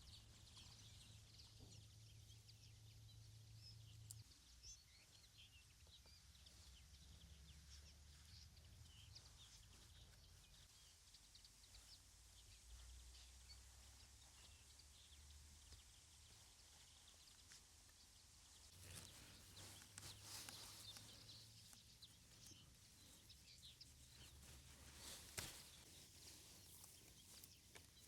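Near silence: faint outdoor ambience with a steady high hiss and scattered tiny bird or insect chirps, a few soft rustles about two-thirds of the way through and one sharp click near the end.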